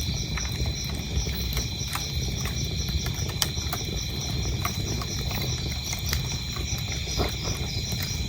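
Wood fire crackling, with frequent sharp pops over a low steady rumble, while crickets chirp in an even rhythm of about three chirps a second.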